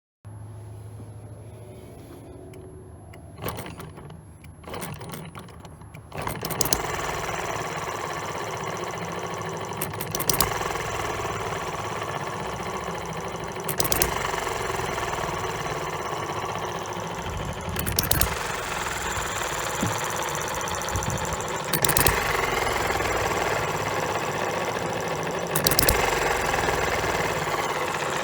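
Spark-ignited model hit-and-miss engine starting after a few clicks, then running steadily from about six seconds in. Sharper, louder bangs come about every four seconds over the running sound, typical of hit-and-miss firing between coasting strokes.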